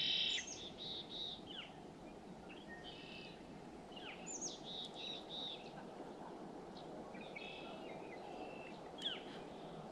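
Small songbirds chirping and calling: short trilled phrases and quick falling notes every second or so, over a steady soft hiss of outdoor background noise.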